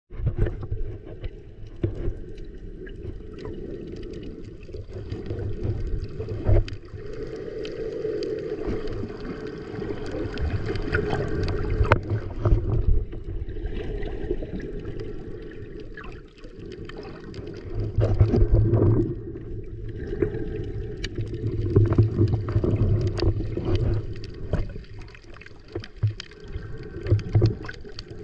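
Muffled water sound of a camera in or at the surface of the sea: water gurgling and sloshing, with knocks and clicks and swells of louder rumbling.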